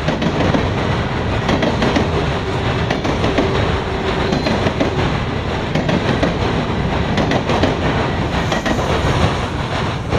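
Freight grain train's cars rolling past: a steady loud rumble with repeated clicking of wheels over rail joints.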